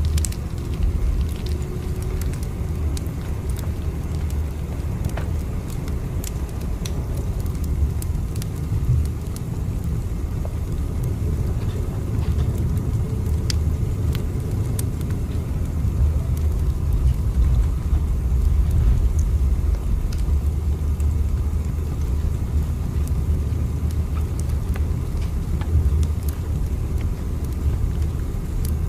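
Steady low rumble of a train running, with scattered faint clicks and rattles over it.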